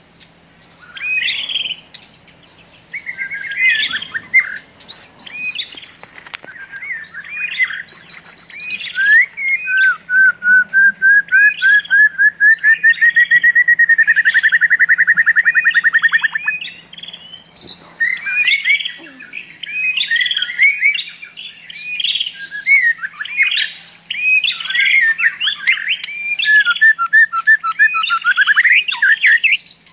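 Songbirds chirping and singing in a busy chorus, with one long, fast trill that rises slightly in pitch for about seven seconds near the middle. A faint steady low hum runs underneath.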